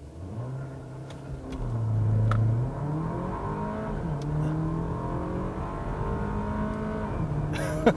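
2019 Porsche Macan's turbocharged four-cylinder engine, heard from inside the cabin, revs against the held brake for a launch and then pulls at full throttle. The revs climb and fall back twice as the 7-speed PDK upshifts.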